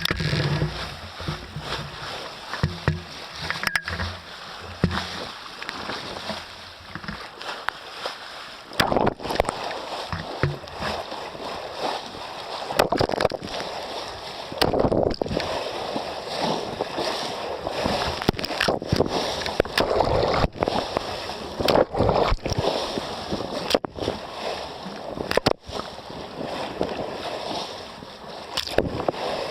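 Water rushing and sloshing along a sailboat's hull as it sails, coming in swelling surges that grow louder about nine seconds in.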